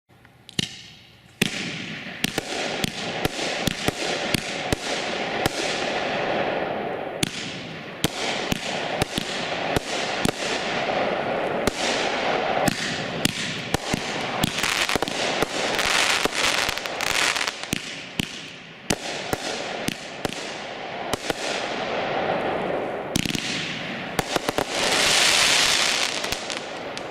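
Shogun consumer fireworks cake firing, with sharp reports coming thick and fast over a continuous hiss of bursting effects. It starts abruptly and dies away near the end.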